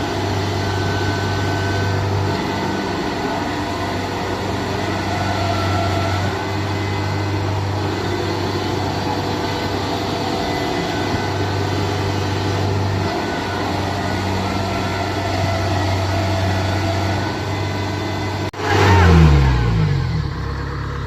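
Diesel engine of a Kubota DC70 Plus rice combine harvester running steadily. About three-quarters of the way through there is an abrupt break, then the engine sounds louder and its pitch drops as it revs down.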